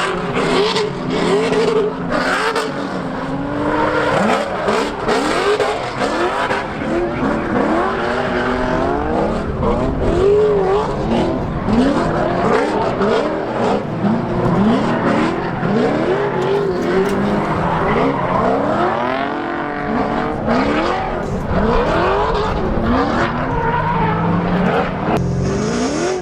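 6.0-litre LS V8 (LQ9) in a drift car, revving hard and repeatedly: its pitch climbs and drops again every second or two as the throttle is worked through the drift.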